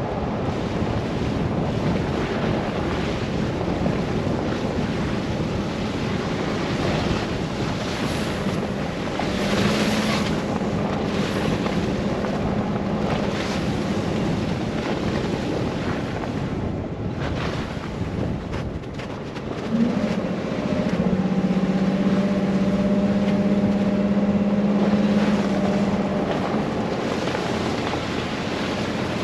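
Car driving through a snow blizzard: a steady rush of wind and road noise, with a low engine drone that comes up about ten seconds in and again, stronger, from about twenty seconds in.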